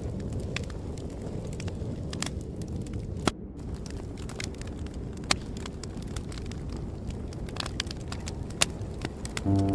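Wood fire crackling, with sharp pops scattered at irregular intervals over a steady low rumble. Soft sustained music comes in near the end.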